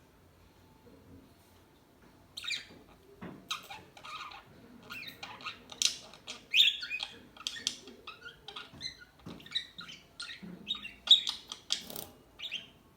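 Budgerigars chattering: a rapid, dense run of short chirps and squawks that starts about two seconds in.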